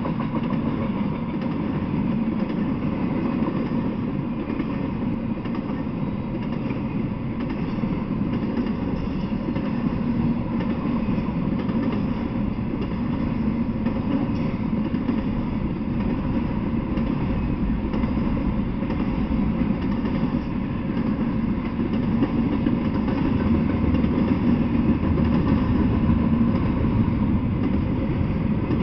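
Intermodal freight train of double-stack container well cars rolling steadily past: a continuous low rumble of wheels on the rails.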